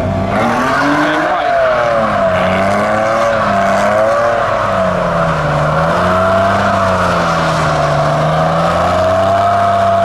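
A modified car's engine held at high revs for about ten seconds, its pitch swinging slowly up and down as the throttle is worked, with a loud exhaust note.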